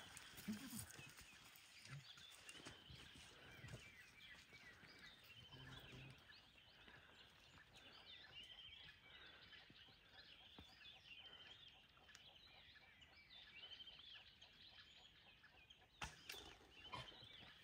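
Faint bird chatter: many short, high chirps overlapping, with a few soft clicks near the end.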